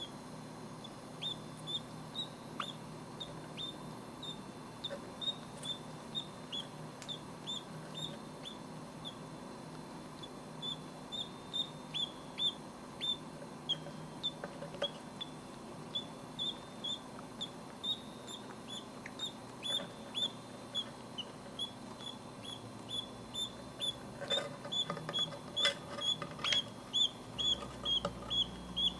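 Budgerigar chicks peeping: a steady string of short, high peeps at one pitch, about two or three a second. They grow faster and louder near the end, with a few scratchy clicks.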